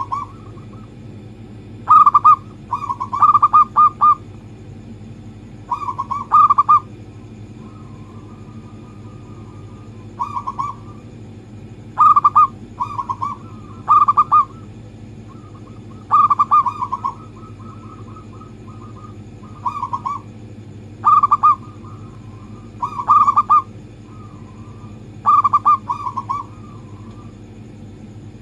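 Zebra dove (perkutut) cooing: short clusters of quick, rolling coo notes repeated every one to two seconds, over a steady low hum.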